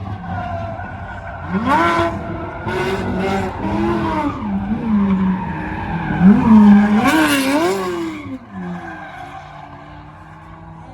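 Drift car's engine revving up and down while its tires squeal in bursts, loudest about two-thirds of the way through, then fading away as the car moves off.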